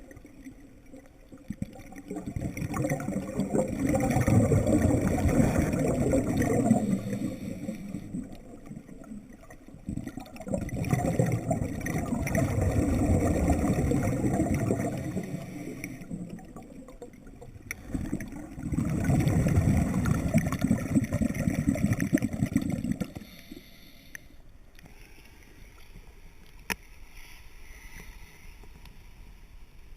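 Scuba diver's exhaled air bubbling out of the regulator, heard underwater: three long rushing exhalations several seconds apart, with quieter breaths-in between and a quieter stretch near the end.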